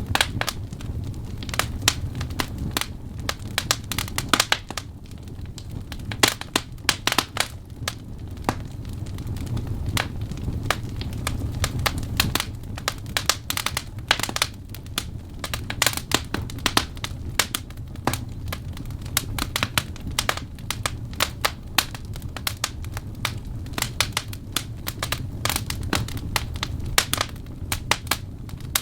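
Wood fire burning, with logs crackling and popping in dense, irregular sharp snaps over a steady low rumble of the flames.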